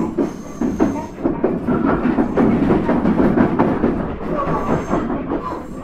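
JR E127 series 0 electric train on the move, its wheels rumbling on the rails with many short clicks and knocks.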